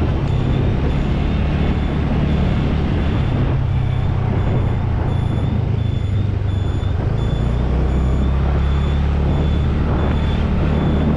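Motorcycle engine running steadily on the road, with a short high electronic beep repeating evenly about one and a half times a second.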